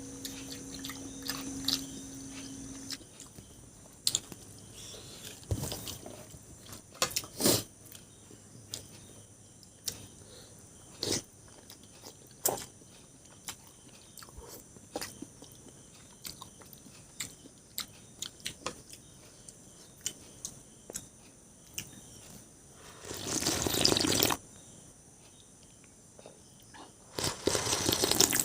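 Close-up eating sounds of a person chewing and biting food, with scattered short clicks and taps. Near the end come two louder, noisy stretches of about a second each.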